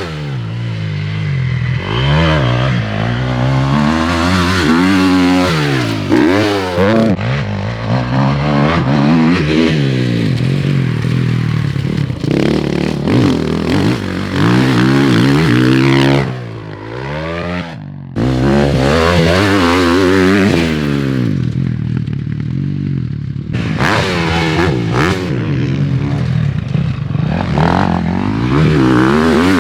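Dirt-bike engines revving up and down over and over as the bikes ride a motocross track, with overlapping engines rising and falling in pitch and a brief drop in engine noise around the middle.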